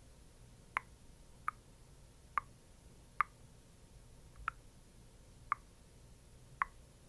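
Seven short plopping taps, roughly one a second, the kind made by patting a skincare product onto skin up close.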